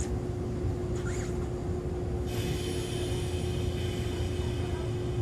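Onboard running sound of an Echizen Railway MC6101-series electric railcar, a former Aichi Loop Railway unit with MT54 DC series-wound traction motors: a steady low rumble with a constant hum. A cluster of higher steady tones joins about two seconds in.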